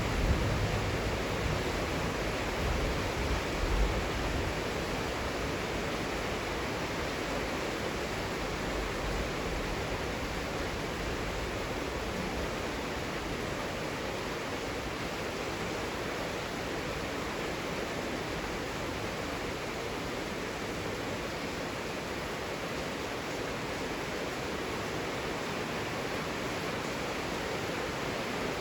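Heavy rain falling in a steady, even hiss. A few low rumbles come through in the first four seconds.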